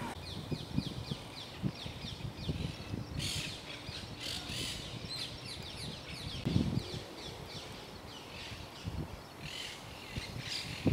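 Small birds chirping, a quick series of short falling notes repeated a few times a second, with louder bursts of chirping about three seconds in and again near the end. Low, dull thumps sound now and then underneath.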